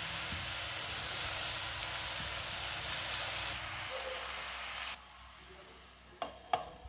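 Vegetables sizzling as they fry in oil in an aluminium pan. The sizzling cuts off suddenly about five seconds in, and near the end there are two light clinks as a glass lid is set on the pan.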